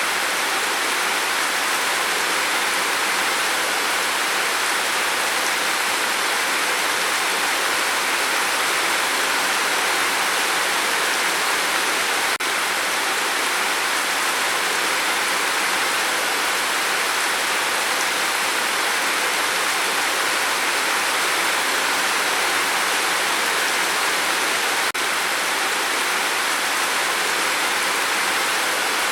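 Steady rain falling: an even, unbroken hiss of many drops, with no single drops standing out.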